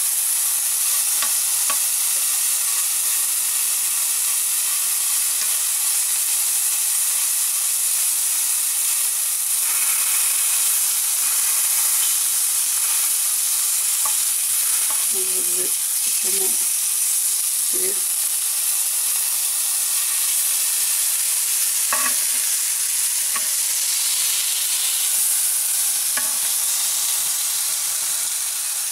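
Chicken breast and aubergine slices sizzling steadily in a ceramic-coated grill pan with almost no oil. Occasional light clicks and scrapes of a slotted spatula against the pan.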